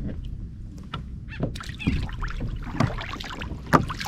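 Fishing kayak on open water: a steady low rumble of wind on the microphone with scattered knocks against the hull.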